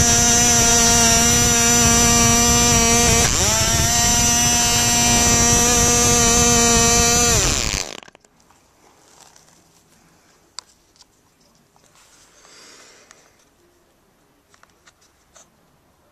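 1961 OS Max 6 1cc two-stroke glow engine running at high speed with a propeller, set rich rather than leaned out. Its high, steady note dips briefly about three seconds in and recovers, then falls in pitch and the engine stops about eight seconds in, followed by a few faint clicks.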